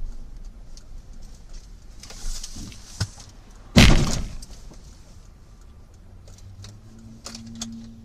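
A vehicle collision: one loud crash about four seconds in that dies away over about half a second, with smaller knocks and clatters around it.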